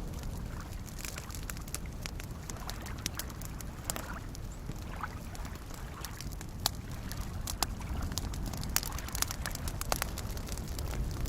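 Campfire crackling with sharp, irregular pops over soft lake waves washing steadily at the shore.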